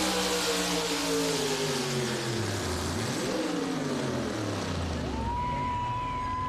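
Four-wheel-drive pulling truck's engine winding down, its pitch falling, with one quick blip of revs about three seconds in before it falls again. From about five seconds in a steady high whine sounds over it.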